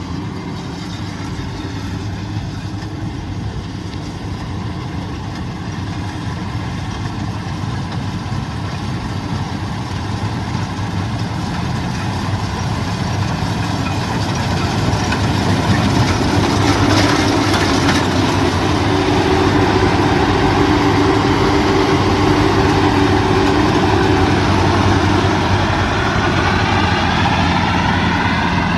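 Combine harvester's diesel engine running steadily, growing louder about halfway through and then holding at the higher level.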